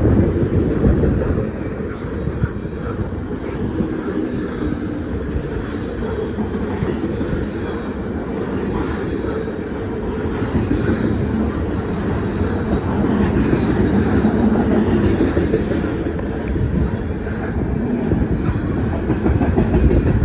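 A train rolling past: a steady low rumble of wheels on rails that runs on without a break.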